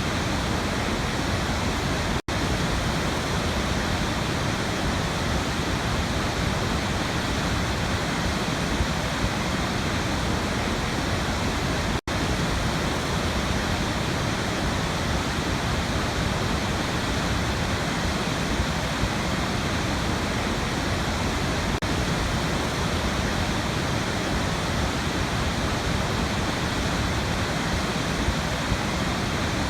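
Waterfall: a steady, even rush of falling water, with two momentary dropouts, about two seconds in and about twelve seconds in.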